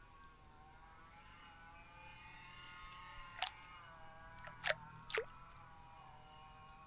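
Birds splashing in a bird bath: three short sharp flicks of water about three and a half, four and a half and five seconds in, over a faint steady hum of several wavering tones.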